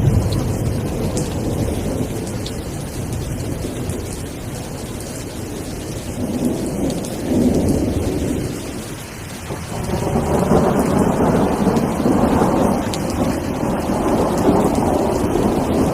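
Steady rain with rolling thunder. The rumble swells about six seconds in, eases briefly near nine seconds, then builds again and stays strong.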